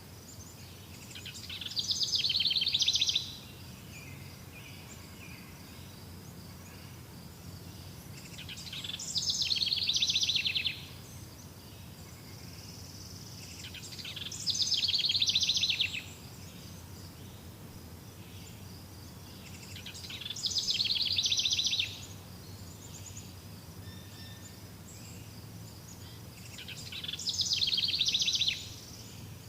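A bird singing a fast, rattling trill that grows louder over about two seconds and then stops abruptly, repeated five times about six seconds apart, over a faint steady high-pitched hum.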